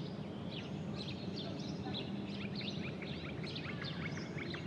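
Many small birds chirping, a dense run of short overlapping chirps, over a low steady hum.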